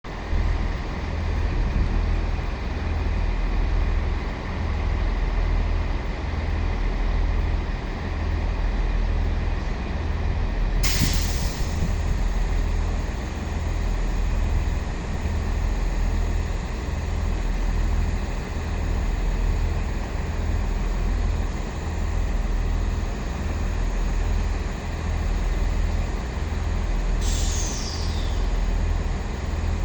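Pair of Class 20 diesel locomotives' English Electric eight-cylinder engines rumbling steadily with a pulsing low beat. A sudden air hiss, typical of an air brake release, comes about 11 seconds in, and a short falling squeal comes near the end.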